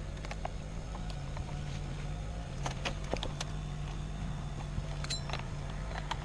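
An engine idling steadily as a low hum, with scattered light clicks and knocks.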